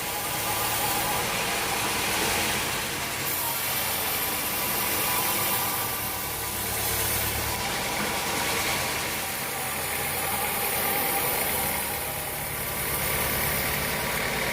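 An engine running steadily at idle, with some rattle.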